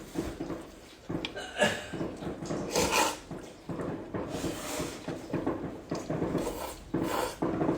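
Close-up chewing of crisp fresh garlic, with irregular crunches and wet mouth sounds.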